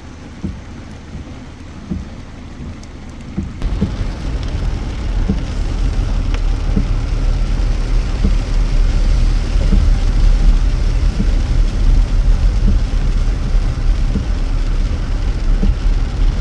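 Rain falling, with scattered drops ticking. About three and a half seconds in, a loud, steady low rumble joins and holds.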